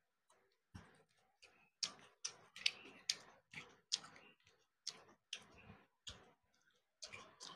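Close-miked eating sounds: a person chewing a mouthful of rice and fish with wet mouth clicks and lip smacks, about two a second in an uneven rhythm.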